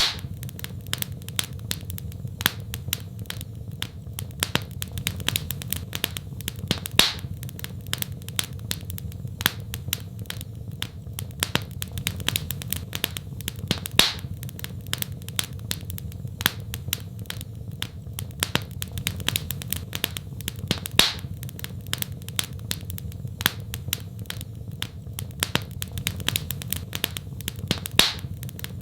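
Wood fire crackling, with frequent small pops and a louder snap about every seven seconds over a steady low rumble.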